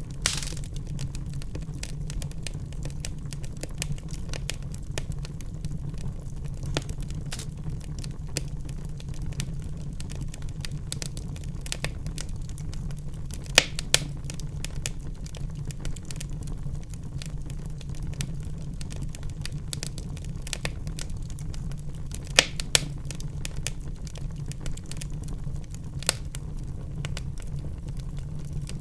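Wood fire burning in a fireplace: a steady low rumble of flames under constant crackling, with a few sharper pops, two close together about halfway through, two more about three-quarters through, and one near the end.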